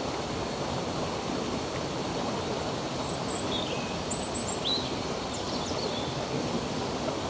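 Stream water running steadily, with a few short bird chirps and whistles in the middle.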